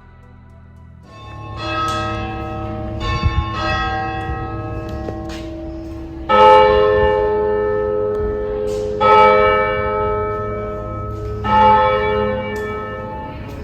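Church bells ringing, several bells struck in turn with long, overlapping ringing tones. The loudest strokes come in the second half, about every two and a half seconds.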